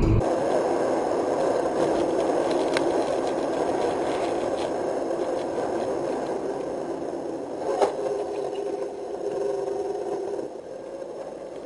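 Steady rumbling road noise of a car in motion, picked up by a dashcam, slowly fading, with a few sharp knocks and rattles, the loudest about eight seconds in.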